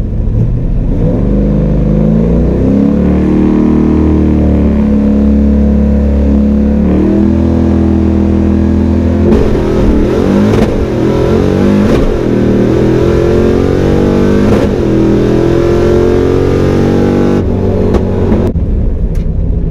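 Car engine running loud under hard acceleration, its pitch climbing and then dropping back at each gear change, several times over.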